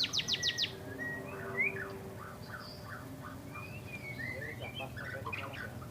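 Songbirds singing: a fast trill of sharp, high notes in the first half-second, then softer, varied chirps and short whistles.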